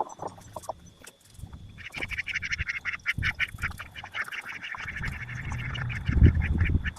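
Poultry calling: a long run of rapid, harsh calls that starts about two seconds in, with a low thump near the end.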